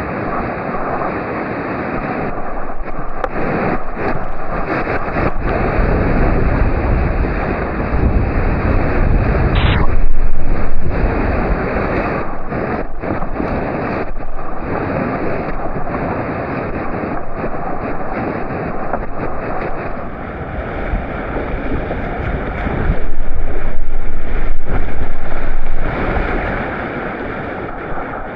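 Rushing whitewater of a class III river heard from a kayak, with water and wind buffeting the microphone in a low rumble. It swells loudest twice, about ten seconds in and again near the end.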